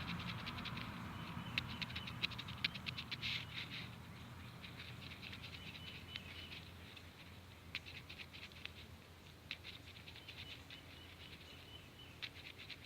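Clusters of quick, faint ticks and taps, which sound like small birds pecking for food, densest in the first few seconds and again later. A faint high trill comes in twice over a low steady hum.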